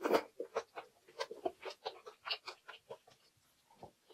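Close-miked chewing of a mouthful of food, with wet mouth clicks and smacks several times a second. A louder burst comes right at the start, and the chewing thins out after about three seconds.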